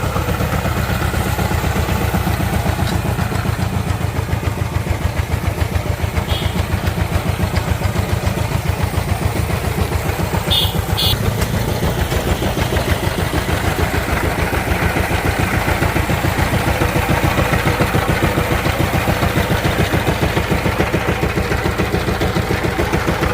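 Diesel engine running steadily with an even, rapid pulsing beat, just after a successful start.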